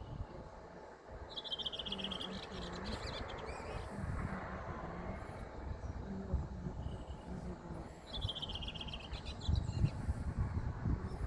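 A small bird singing two short phrases, each a high, falling trill, one near the start and one late on, over a low rumble.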